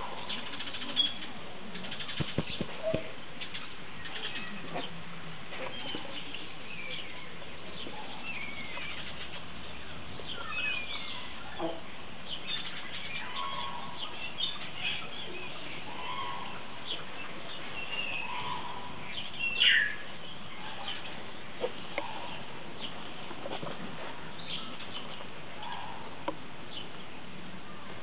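Birds chirping and whistling in short, scattered calls, some gliding up or down in pitch, over a steady hiss. There are a few sharp clicks in the first few seconds and one louder gliding whistle about two-thirds of the way through.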